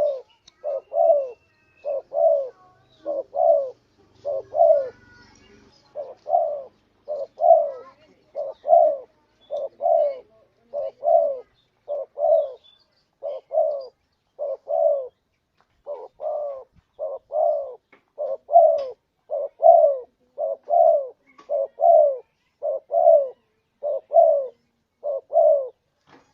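Spotted dove (tekukur) cooing: a steady run of short, low coos at about two a second, with a brief pause about five seconds in. It is the dove's lure call. Faint chirps of other birds sit behind it.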